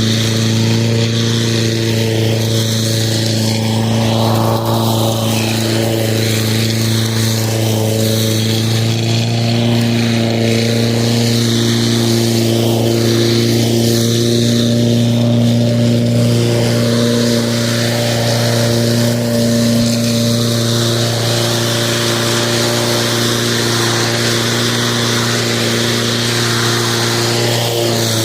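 Lawn mower running steadily at a constant pitch, its motor hum and blade noise unbroken.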